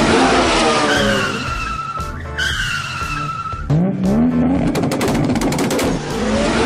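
Dubbed-in car sound effect: an engine revving up and down with tyres skidding and squealing, over background music.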